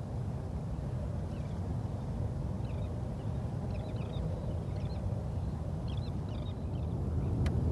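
Faint, high, chirpy bird calls in several short clusters over a steady low rumble from the boat, with a single sharp click near the end.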